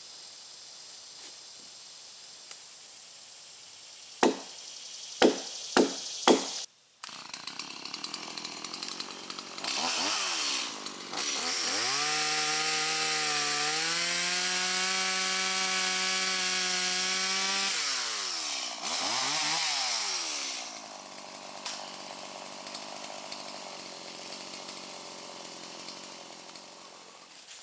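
Two-stroke chainsaw cutting a log: a few sharp knocks, then the saw running, held at full throttle through the cut for about six seconds, revved down and blipped twice, and left idling.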